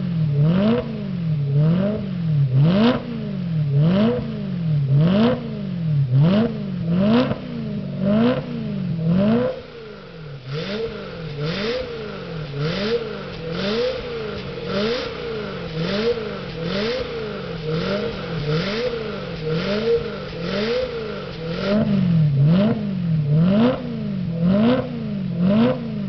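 BMW E92 M3's 4.0-litre V8 through a Kreissieg F1 exhaust, revved repeatedly while standing, each blip rising and falling about once a second. The revving is quieter from about ten seconds in and grows louder again near the end.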